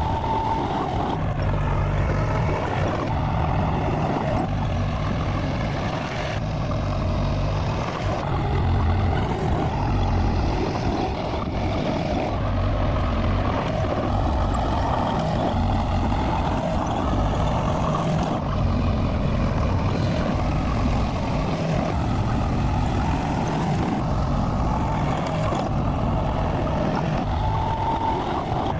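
Bulldozer's diesel engine running steadily at working speed.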